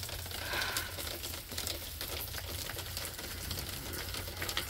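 Rain falling steadily, with many close drops ticking irregularly.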